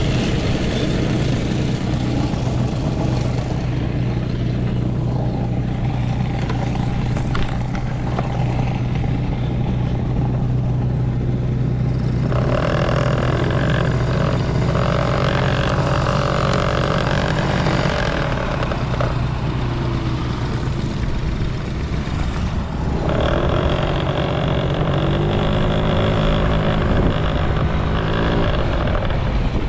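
Yamaha Passol scooter's small two-stroke single-cylinder engine running steadily, with a higher, louder sound joining in two stretches, about twelve and twenty-three seconds in, and rising in pitch near the end. It runs without abnormal noise and revs up well.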